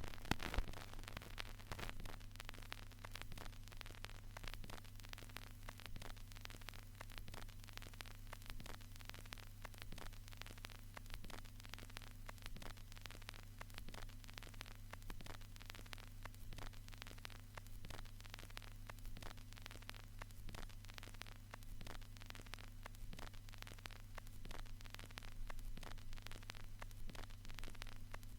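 Vinyl record surface noise: dense, irregular crackle and pops over a steady low hum, with one louder pop near the start.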